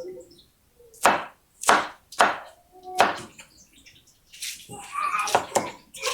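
Kitchen knife chopping a bell pepper on a cutting board: a few separate cuts, then a quicker run of cuts near the end.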